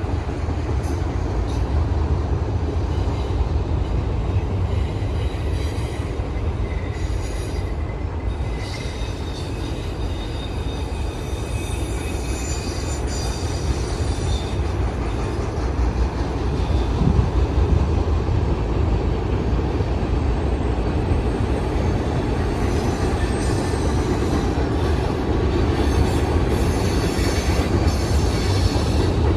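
Freight train rolling past at steady speed: a continuous low rumble of wheels on rail, with thin, high wheel squeal coming and going over it.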